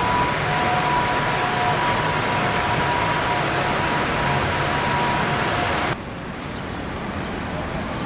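Steady city street noise of passing traffic with a faint high steady whine over it, dropping suddenly to a quieter, duller hum about six seconds in.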